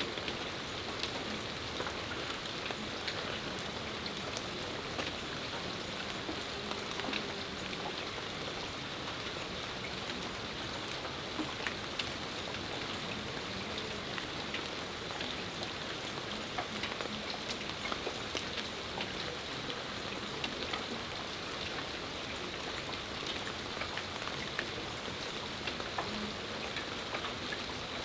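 Steady rain shower falling, an even hiss with many individual drops ticking sharply on nearby surfaces.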